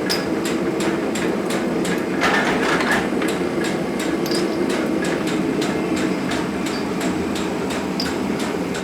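Metalworking machinery in a workshop running steadily, with a constant hum and a regular ticking of about three clicks a second.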